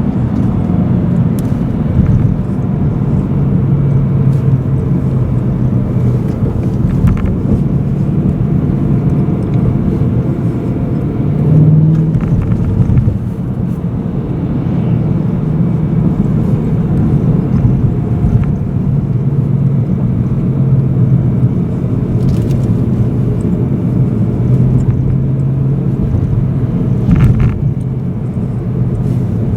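BMW M3 E92's 4.0-litre V8 heard from inside the cabin, running at low revs in city driving, its drone stepping up and down in pitch as the revs change, with a brief louder swell about twelve seconds in.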